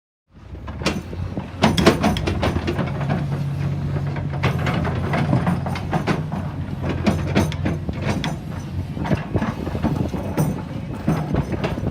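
A heavy vehicle's engine running steadily, starting abruptly after silence, with many knocks, clanks and rattles over it.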